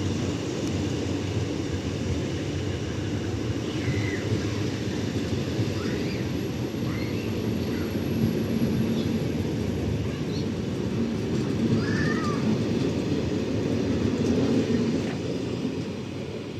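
Freight train rolling past with a steady low rumble of wagons, easing off near the end. A few short high chirps sound over it.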